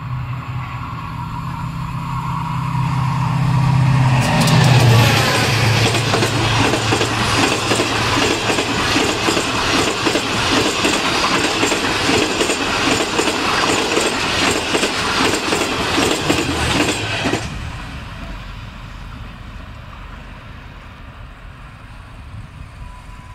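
GEU-40 diesel-electric locomotive drawing near, its engine note swelling and dropping in pitch as it passes about four seconds in. Then the coaches rush by for about thirteen seconds with a dense rattle of wheels on the rails, which cuts off sharply as the last coach clears and fades as the train pulls away.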